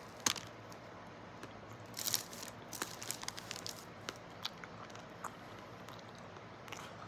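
Close chewing of a chocolate-dipped banana coated in pistachios and almonds: crunching with sharp mouth clicks, busiest from about two to four seconds in.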